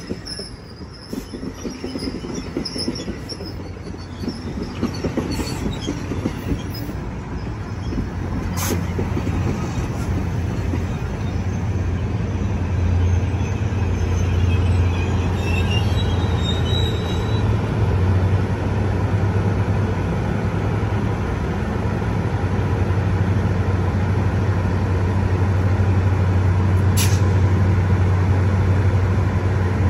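NJ Transit commuter train of bilevel coaches rolling past and slowing to a stop, with a faint rising squeal about halfway through and a couple of sharp clicks. The locomotive's steady low hum grows louder as it draws close.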